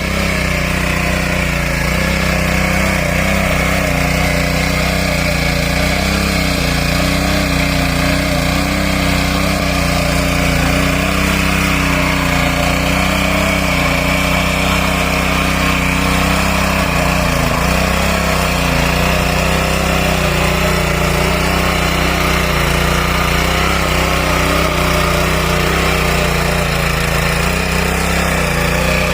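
Walk-behind mini tractor (power tiller) engine running steadily while tilling soil.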